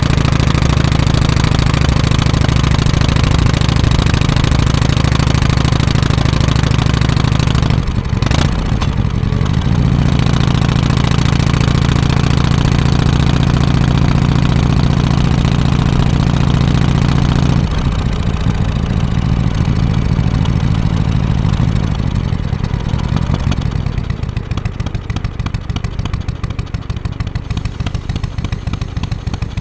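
Harley-Davidson FXSTC Softail Custom's 1340 cc Evolution V-twin running with its exhaust loud and steady. The note dips briefly about 8 seconds in and changes again around 18 seconds. It settles lower and quieter for the last several seconds.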